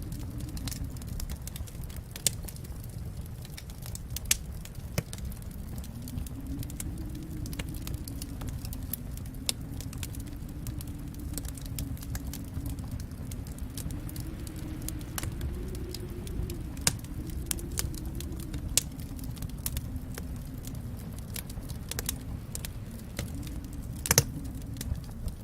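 Wood fire in a fireplace crackling: a steady low rumble of burning with scattered sharp pops, one louder pop near the end.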